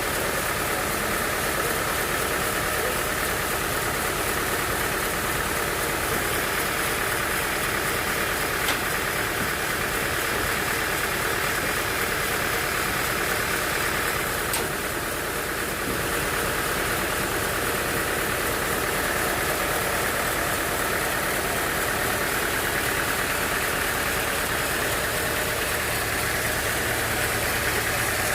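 Sawmill machinery running steadily on its engine, with a brief dip in level about halfway through.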